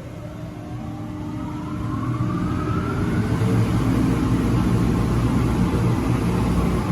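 A machine spinning up: a whine rising steadily in pitch over about three seconds, swelling into a loud, steady rumble.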